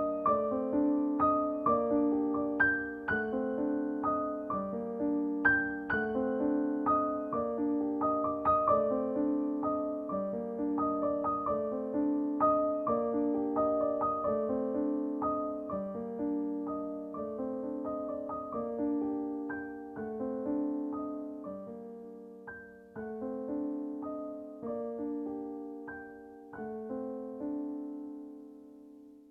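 Soft, slow piano music with gently repeating notes, growing quieter and fading out near the end.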